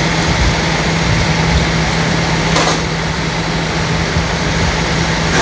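Steady hum and rushing noise of an idling heavy engine, with one brief louder hiss about two and a half seconds in.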